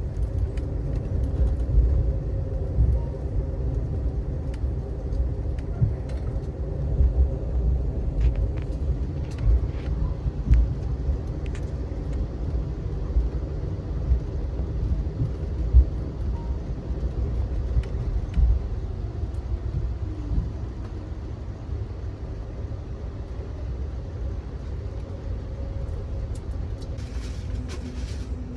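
Passenger train heard from on board while running: a steady low rumble with a faint hum and scattered light clicks and knocks, and a brief hiss near the end.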